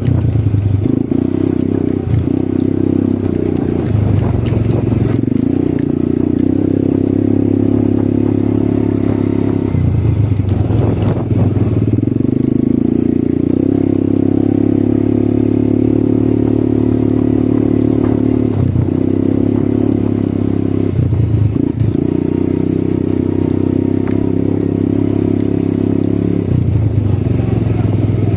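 ATV engine running while riding, its note changing several times as the throttle opens and closes.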